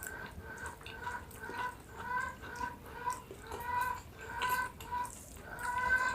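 A bird calling over and over, a steady run of short pitched notes at about two a second.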